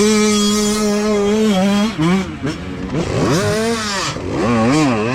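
Youth dirt bike engines revving hard on a race start. One engine holds a steady high note, then falls and climbs in pitch several times as it goes through the gears, with another bike's engine running beneath it.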